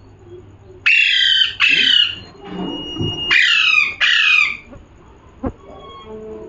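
Pet parrot squawking: four loud, harsh screeches in two pairs, each falling in pitch, with a short pause between the pairs.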